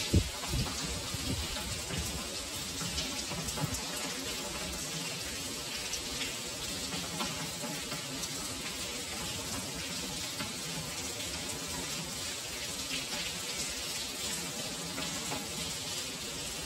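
Steady heavy rain falling on stone paving, with many close drops ticking and splashing. A brief low thump comes right at the start.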